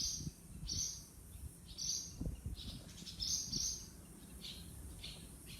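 Birds calling: a string of short, high calls repeated roughly once a second, with a few soft low thumps underneath.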